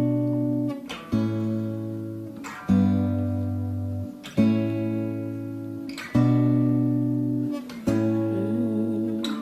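Acoustic guitar playing a slow instrumental intro: a chord is strummed about every second and a half and left to ring out.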